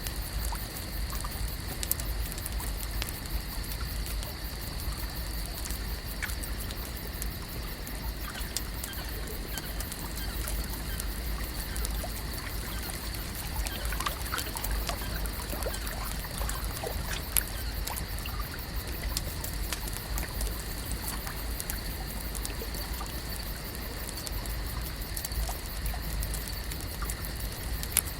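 Lakeside nature ambience: water gently trickling and lapping, with a few faint bird chirps and scattered small clicks over a steady high-pitched hum and low rumble.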